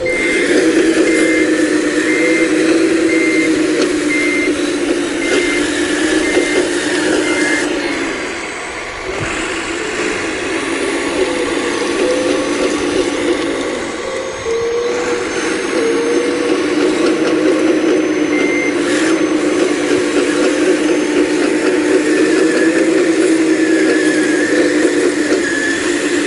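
Full-size excavator's diesel engine and hydraulics running under load, easing off briefly twice. For the first several seconds an alarm beeps steadily, a few beeps a second.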